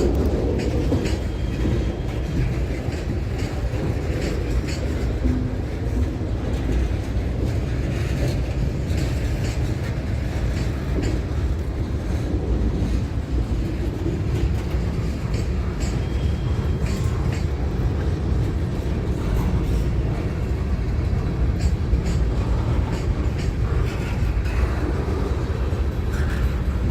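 A train rolling past, its wheels clicking steadily over the rail joints under a continuous low rumble.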